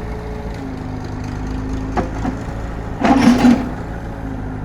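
Engine idling steadily, with a sharp knock about two seconds in and a louder brief clatter about three seconds in.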